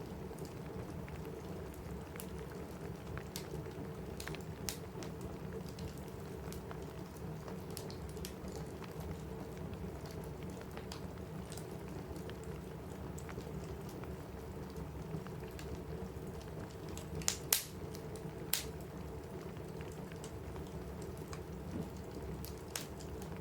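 Steady rain on a roof, a low even rush, with scattered sharp pops and crackles from a wood fire; a few louder pops come close together about two-thirds of the way through.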